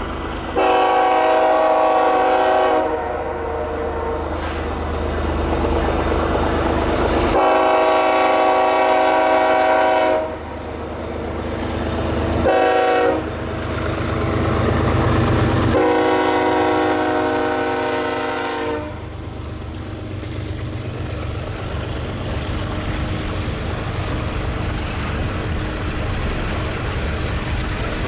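Freight locomotive's multi-chime air horn sounding the grade-crossing signal: two long blasts, a short one and a final long one, over the low rumble of the diesel engines. After the last blast the train runs on with steady rumble and wheel noise.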